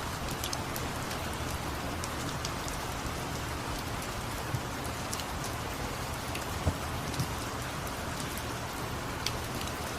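Steady rain falling, an even wash of noise with a few sharper, louder drips here and there.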